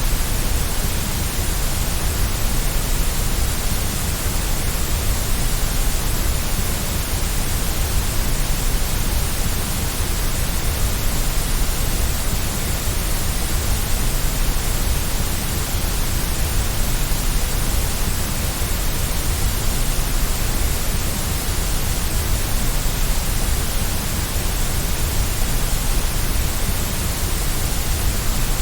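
Steady white noise for soothing a baby to sleep: an even, unchanging hiss, fuller at the low end.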